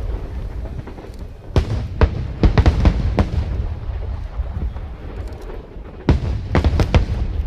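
Aerial fireworks shells bursting in two clusters of sharp booms, one about one and a half to three seconds in and another about six to seven seconds in, over a continuous low rumble.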